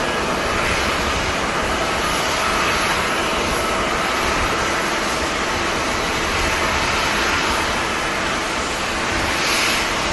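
Steady jet airliner engine noise with a faint high whine, mixed with gusty wind buffeting the microphone.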